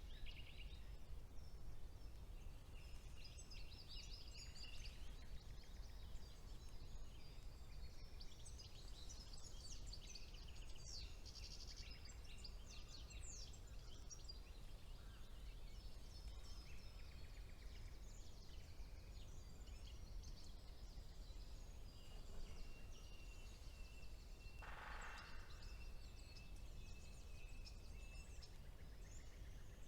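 Several songbirds singing in a spring woodland: quick high chirps and trills, then a long thin steady whistle in the second half and a brief harsher call near the end, over a low steady background rumble.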